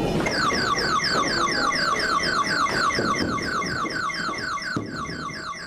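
Electronic warbling alarm-like sound effect from an arcade skee-ball machine: a rapid run of falling beeps, about five a second, over low arcade hubbub, fading out near the end.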